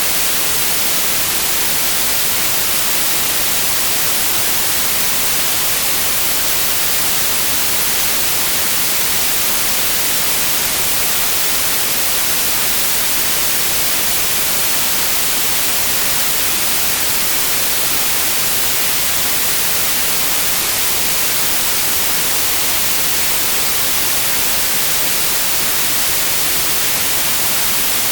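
Steady white noise: an even hiss, constant in level, with no changes or events.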